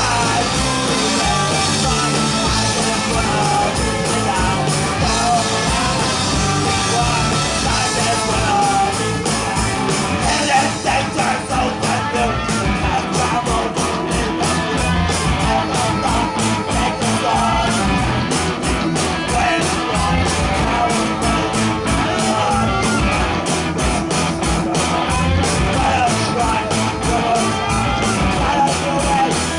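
Live rock band playing a loud, fast song with sung vocals and electric guitar; from about twelve seconds in the drums hit a steady fast beat.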